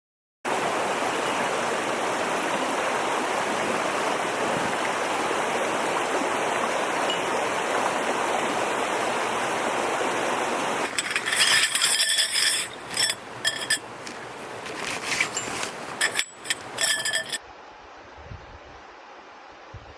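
A steady rushing hiss. About eleven seconds in, it gives way to a run of bright ringing clinks lasting about six seconds, then to a quieter hiss.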